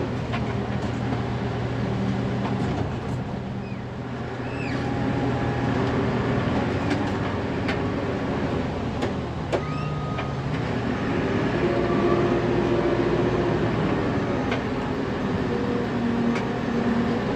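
Diesel engine of a 1999 Fermec TLK760 backhoe running, heard from inside the cab. Its tone shifts a few times as the engine speed changes, with a few sharp clicks.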